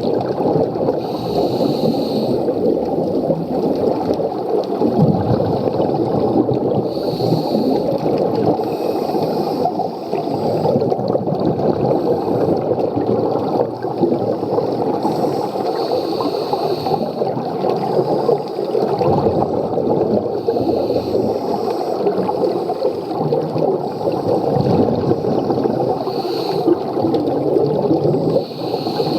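Scuba regulator breathing underwater: a continuous bubbling gurgle of exhaled air, with a brief hiss of inhalation every few seconds.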